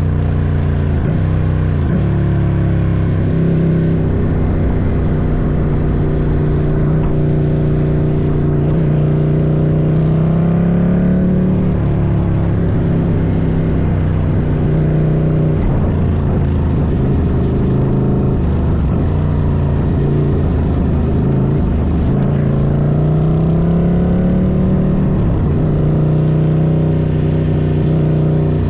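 Ducati Scrambler's air-cooled L-twin engine running under way on a trail ride. The engine note climbs and then drops back twice, once a little before the middle and again near the end.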